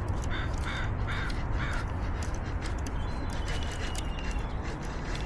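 A bird calling four short, harsh calls in quick succession within the first two seconds, over a steady low rumble.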